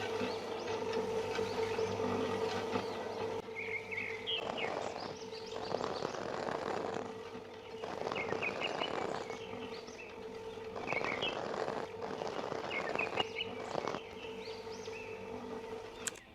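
Birds chirping over a steady hum, with five bursts of rushing noise about a second each.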